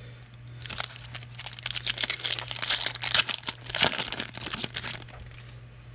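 Plastic wrapper of a 2020 Panini Prestige football card pack crinkling and tearing as the pack is opened: a dense crackle from about half a second in until about five seconds, over a steady low hum.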